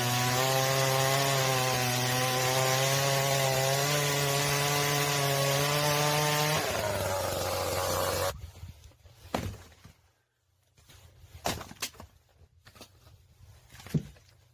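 Chainsaw running steadily through firewood. About six and a half seconds in, its pitch sags as it slows, then the sound cuts off abruptly. A few scattered sharp knocks follow.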